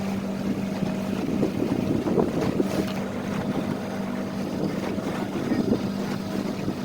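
Small boat's outboard motor running at a steady cruising speed, with wind buffeting the microphone and water rushing past the hull. The rushing and buffeting swell about a second and a half in and again near the end.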